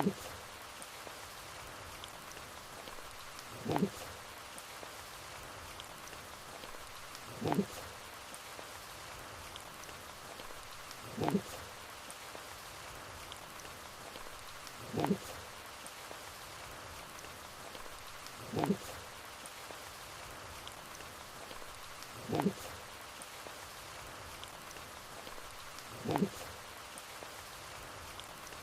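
Steady rain hiss, with a short sound that drops sharply in pitch repeating evenly about every four seconds, seven times.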